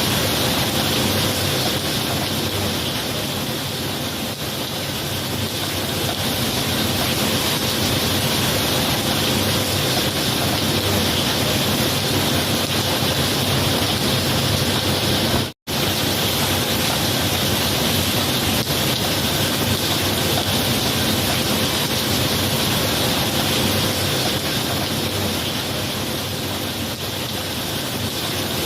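Steady heavy rain, an even hiss with no single drops standing out, cut off by a split-second gap of silence about halfway through.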